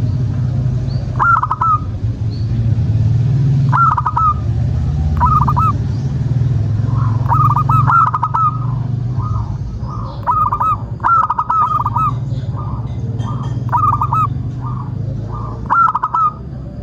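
Zebra doves cooing: short clusters of quick, rising-and-falling coo notes repeated every second or two, becoming more frequent about halfway through, with fainter answering notes in between. A steady low rumble lies underneath.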